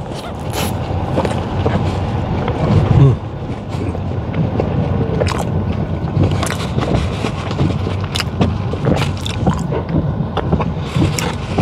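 Close-up eating sounds: a man chewing a mouthful of smash burger, with wet smacks and clicks of the mouth, and finger-licking near the end. Under it runs the steady low rumble of road and tyre noise inside the Tesla Model X's cabin.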